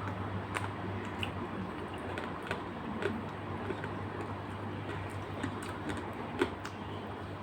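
Eating sounds: a few irregular light clicks and taps over a steady low hum.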